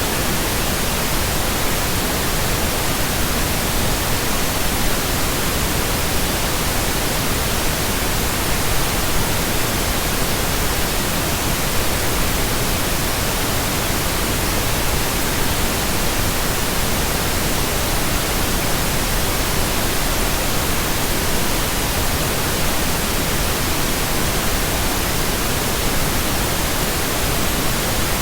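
Steady synthetic pink noise: an even, unchanging hiss spread across the whole range from deep lows to high treble.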